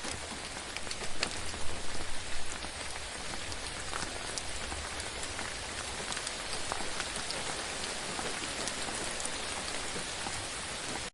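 Steady rain falling on a surface, with scattered sharp ticks of individual drops; a few louder swells in the first couple of seconds. It cuts off abruptly at the end.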